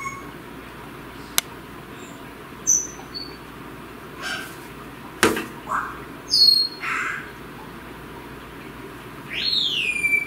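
Bird chirps and whistles: several short high chirps, then near the end a longer call that slides down in pitch. Two sharp clicks come in between, about a second and a half in and again halfway through.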